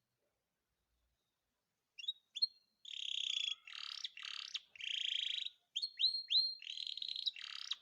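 Canary singing: after about two seconds of silence, a few sharp sweeping chirps, then a run of high buzzy rolls of rapid repeated notes, each about half a second to a second long, alternating with short whistled sweeps.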